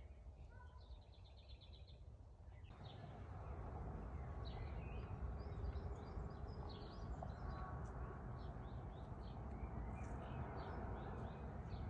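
Small songbirds chirping and calling, with a short rapid trill of repeated notes near the start and many brief chirps later on. From about three seconds in, a steady low rumble of outdoor background noise rises underneath.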